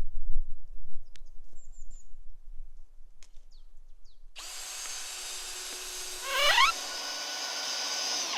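A small electric motor, like a power tool or kitchen appliance, runs with an even rushing noise. Its whine rises quickly about two seconds after it starts. It starts abruptly about halfway through and cuts off suddenly.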